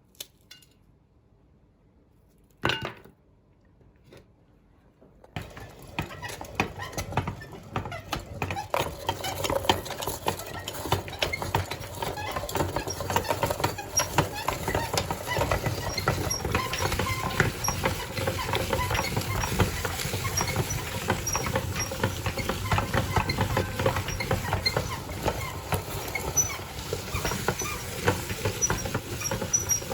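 A meat grinder crushing coloured chocolate candies: a dense, continuous crackling and crunching of hard candy shells that starts about five seconds in and goes on steadily. A single sharp knock comes just before three seconds in.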